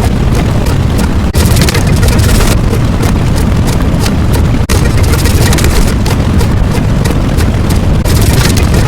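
Loud, dense rumbling noise laced with rapid crackles, a sound effect, with two brief drop-outs, one just over a second in and one near the middle.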